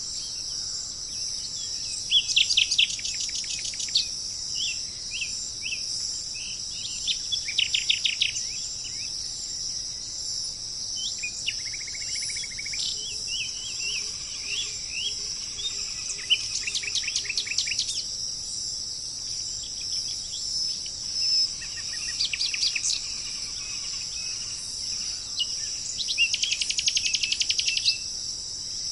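A songbird singing short phrases of rapid, high notes, repeated about every four to five seconds, over a steady high-pitched insect drone of crickets.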